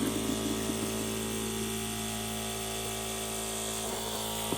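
Small electric motor of a water treatment system switched on and running with a steady whine over a hiss, then cutting off abruptly.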